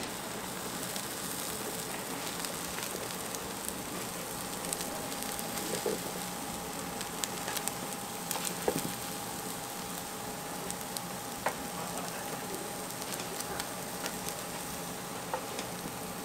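Korean street toast frying on a hot buttered griddle: a steady sizzle, with scattered sharp clicks and one louder knock a little past halfway.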